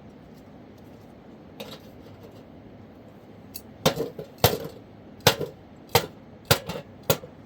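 A series of sharp knocks: one lighter knock, then about six strong ones in quick, fairly even succession in the second half, over a faint steady hiss.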